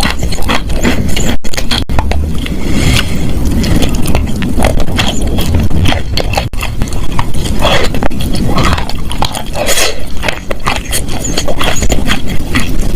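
Close-miked crunching and chewing of wet chalk: a dense, irregular run of crackling crunches.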